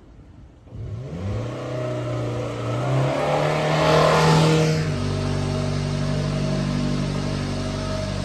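1999 Subaru Sambar kei truck's small 660 cc four-cylinder engine starting up about a second in. It revs higher briefly around the middle, then settles into a steady idle.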